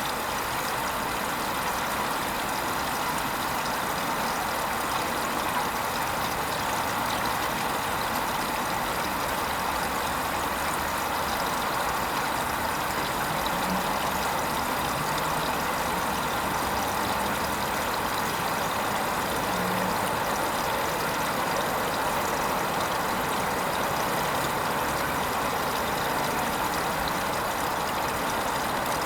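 Hoover Vision HVP16 washing machine running a Silks 30 programme, a steady, even machine noise with no pauses.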